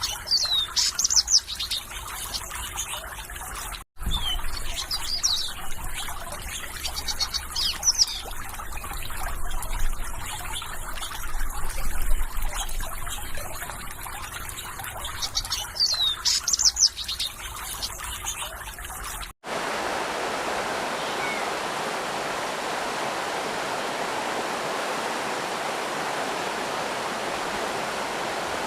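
Water trickling with small birds chirping in quick high notes over it. After a brief dropout about two-thirds of the way in, it changes to a steady, even rush of water with no birdsong.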